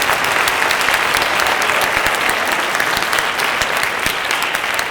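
Audience applauding, a dense patter of many hands clapping that eases slightly toward the end.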